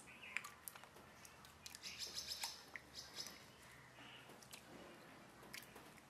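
Faint bird chirps, with scattered light clicks.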